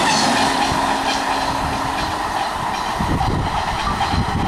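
Passenger train coaches passing close by, wheels clattering over the rail joints with a steady hum. About three seconds in the sound changes to a low, uneven rumble.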